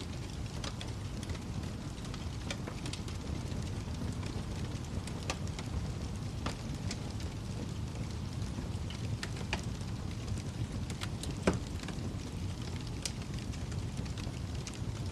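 Wood fire burning in a fireplace: a steady low rumble of flames with irregular sharp crackles and pops, one louder pop a little over eleven seconds in.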